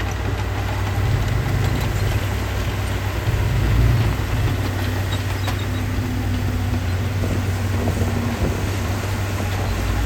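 A heavy machine's diesel engine running steadily at low revs, briefly louder about four seconds in.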